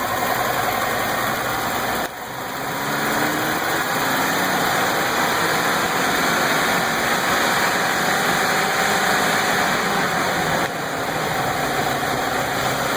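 Ford 6.8-litre Triton V10 truck engine idling steadily, with a brief drop in level about two seconds in.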